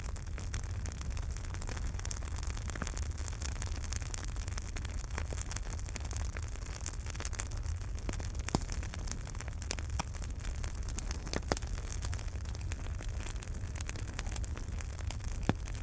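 Wood fire in a fireplace crackling, with a steady low rumble and hiss and frequent sharp pops and snaps, a few louder ones scattered through.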